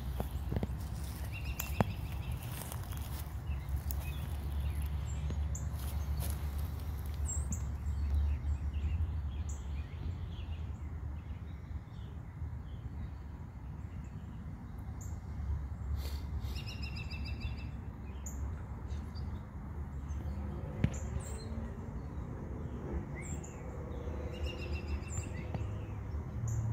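Songbirds chirping and calling here and there, short high notes and a few quick repeated phrases, over a steady low rumble.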